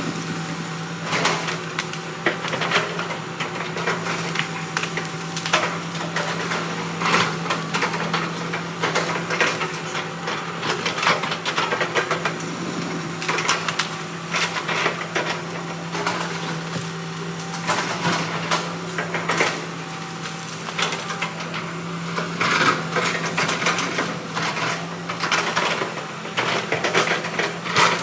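Heavy machine's diesel engine running steadily under frequent, irregular cracks and knocks of wood as an excavator gathers logs.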